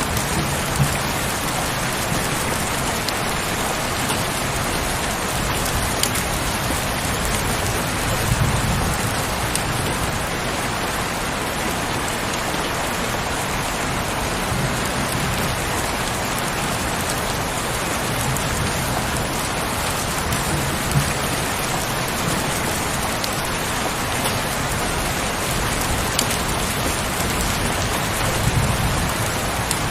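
Heavy rain falling steadily as a dense, even hiss, with a few sharp single drop hits. Twice there is a brief low rumble, about eight seconds in and near the end.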